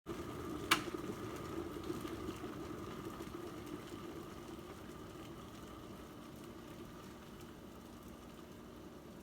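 Water boiling in a glass electric kettle, a steady bubbling rumble. There is one sharp click under a second in, and the sound then slowly fades.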